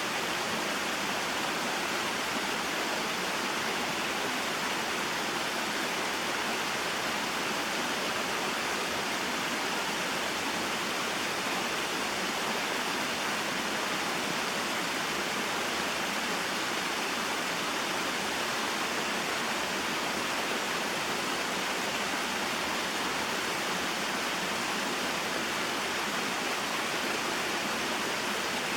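Small mountain waterfall and stream: water falling and flowing in a steady, even rush.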